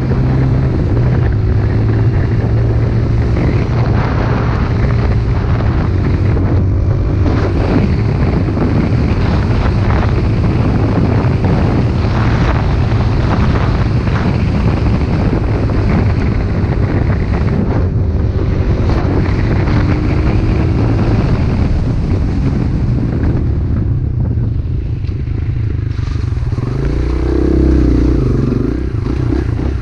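A pit bike's small engine running steadily while being ridden, with wind noise on the microphone. Near the end the engine pitch wavers up and down.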